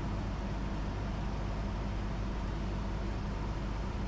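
Cessna 172's engine and propeller running steadily in flight, heard inside the cabin as an even low drone with a hiss of airflow over it.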